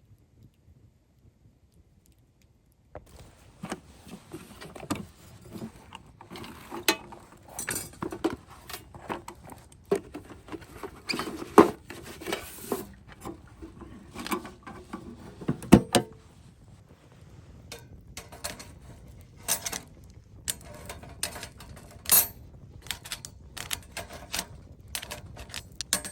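Camp gear being handled and set down: irregular clinks and knocks, starting about three seconds in, some much louder than others.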